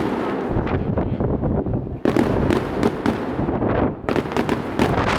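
Aerial fireworks display: shells bursting and crackling densely in quick succession, with new volleys starting about two and four seconds in.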